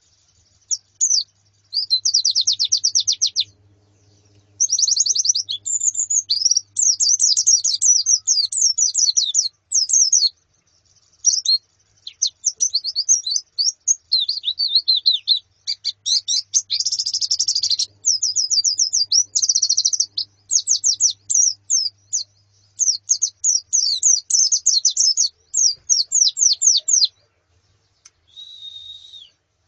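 White-eyes (pleci) chirping and twittering in fast, high runs of notes, phrases of one to three seconds with short gaps between them: the female and flock calls used to stimulate a male pleci to sing.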